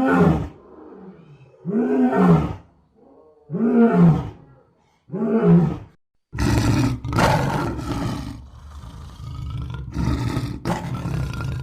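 Lion roaring: four drawn-out roars, each rising and falling in pitch, about every one and a half to two seconds. About six seconds in it switches abruptly to a rougher, continuous growling roar.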